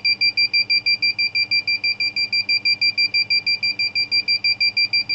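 Piezo buzzer of a homemade timer-IC rain alarm circuit beeping in rapid, even pulses, several a second, at one high pitch. Water sprinkled on the rain sensor has set it off, and it keeps beeping while the sensor stays wet.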